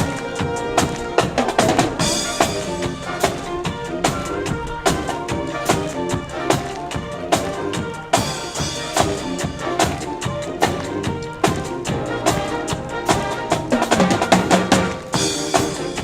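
Band music with pitched instrument lines over a steady, driving drum beat of bass and snare drum, with a cymbal crash about every six seconds.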